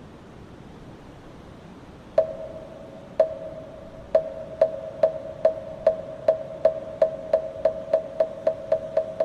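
Moktak (Korean Buddhist wooden fish) struck with its mallet, starting about two seconds in: a few strokes about a second apart, then the strokes speed up steadily into a quickening roll. Each knock rings briefly at the same pitch.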